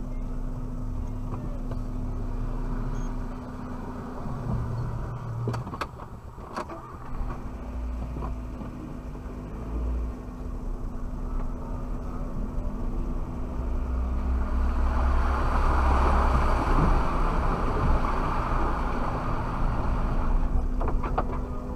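Suzuki Jimny's engine running as it drives off-road, heard from inside the cabin, with a few sharp knocks and rattles about six seconds in and again near the end. The engine and road noise grow louder from about two-thirds of the way through.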